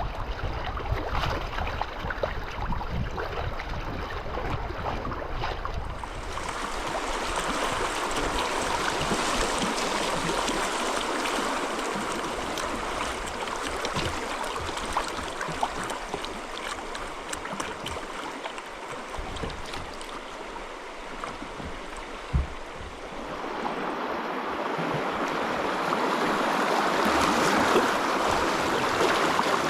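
River water rushing over a riffle, louder about six seconds in and again near the end, with one short knock a little past two-thirds through.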